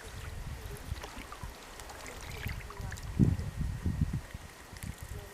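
Canoe on a river: paddle strokes and water trickling and lapping, with low rumbling surges, the strongest about three seconds in.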